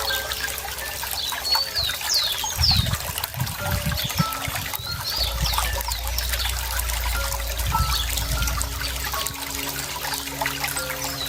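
Running water trickling steadily, with a small bird giving quick chirps that sweep up and down in pitch, in two short bursts a few seconds apart.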